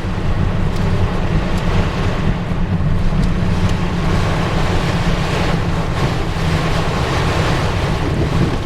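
Torrential thunderstorm rain pelting a moving car, with wind buffeting the microphone and a steady low rumble of road noise. A few sharper ticks, likely hailstones striking the car, stand out now and then.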